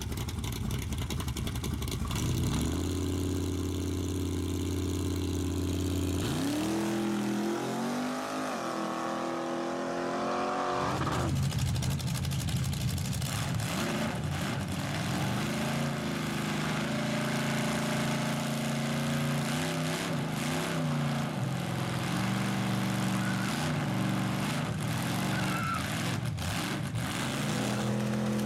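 Car engines running at a car show: a steady engine note, then a rev that rises and falls several times a few seconds in, then more steady running with smaller blips of the throttle.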